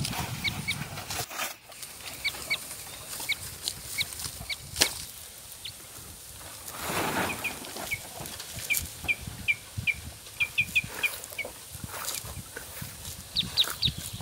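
Short, high bird chirps repeating over and over, with rustling and sharp crackles of dry palm leaves being handled and piled, a longer rustle about halfway through.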